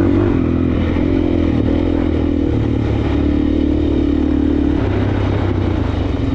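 Suzuki DR-Z400S single-cylinder four-stroke dirt bike engine running under way on a trail, its pitch shifting with the throttle. Near the end the engine note turns to a slower, pulsing beat.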